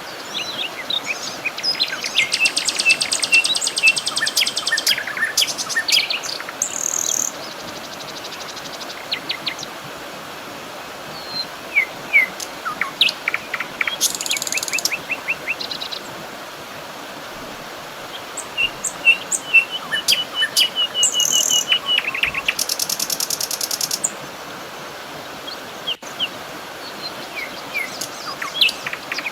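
Several wild birds singing and calling: short chirps and whistles with a few fast, buzzy trills, over a steady background hiss.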